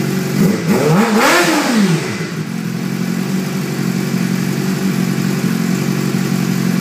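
Suzuki GSX-R600 inline-four engine breathing through a Yoshimura R55 exhaust, idling steadily. About half a second in it gets one quick throttle blip, rising and falling in pitch, then it settles back to idle.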